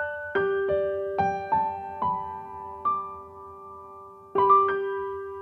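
Background keyboard music: a slow melody of single piano-like notes, each struck and left to ring out.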